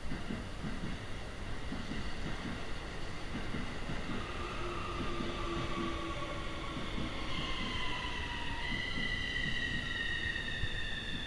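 Keikyu 1000 series electric train pulling into a station and braking, wheels rumbling on the rails under a high electric whine that falls slowly in pitch as the train slows.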